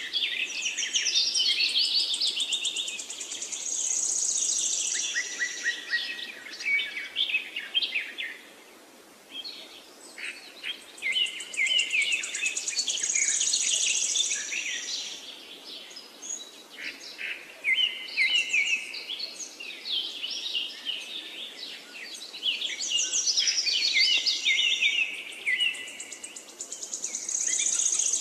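Several songbirds singing at once, a busy mix of rapid trills and chirps that swells and fades in waves, with a brief lull about nine seconds in.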